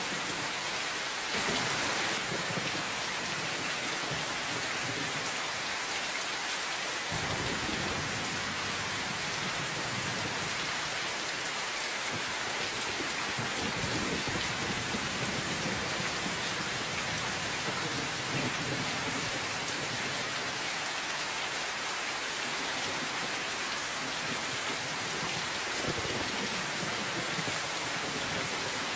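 Steady, dense rainfall hissing evenly, with low rumbles of thunder swelling up now and then.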